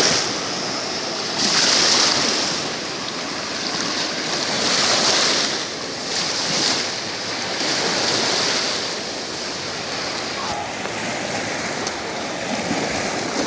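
Sea waves surging and washing, a steady hiss that swells and fades every one to two seconds.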